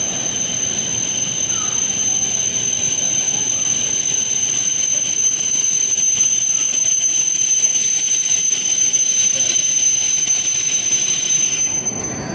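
Train running along the rails, a steady rumble with a constant high-pitched squeal over it, cutting off suddenly near the end.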